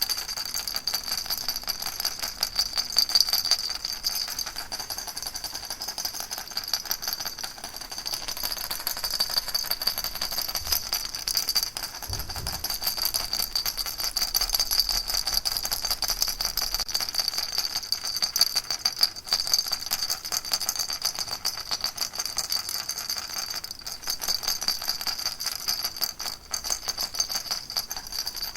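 Baby rattle shaken without a break: a dense, even rattling of many small beads, with a steady high ringing under it. A soft low bump comes about twelve seconds in.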